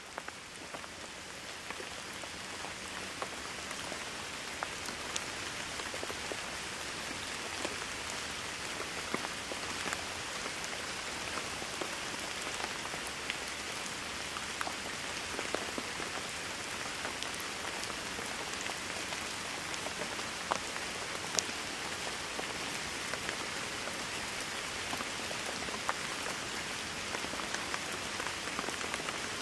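Steady rain with a dense hiss and many individual drops ticking on a surface, fading in over the first few seconds before holding even.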